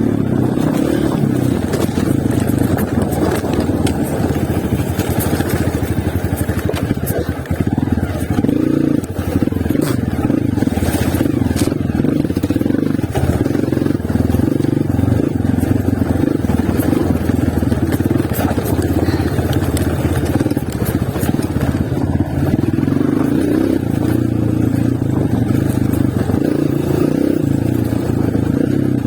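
Honda CRF230 single-cylinder four-stroke dirt bike running under riding load, its engine note rising and falling with the throttle, with a few short knocks and clatters over rough ground.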